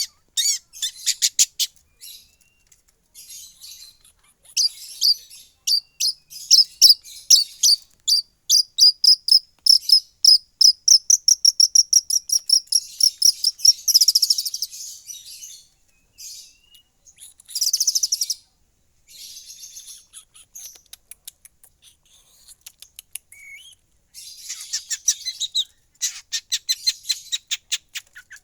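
Long-tailed shrike (pentet) singing in long runs of rapid, high chirping notes. One run speeds up into a fast trill about halfway through, and the runs are broken by short pauses.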